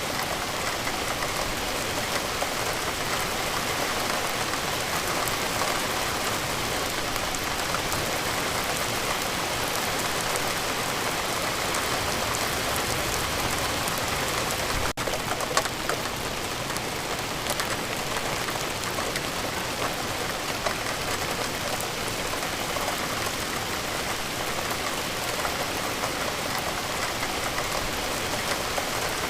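Steady rainfall: an even hiss with scattered ticks of individual drops. There is a momentary dropout about halfway through.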